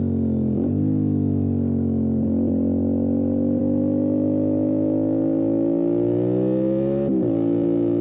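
Motorcycle engine running hard under load, its note sagging and then climbing steadily as the bike accelerates. The note breaks sharply three times, about half a second in, around two seconds in and near the end, at the gear changes.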